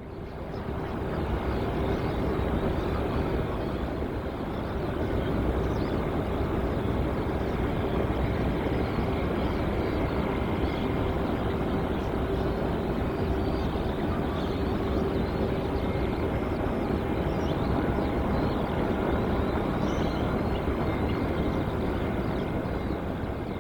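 Jet airliner engines running with a steady rumble and a constant whine.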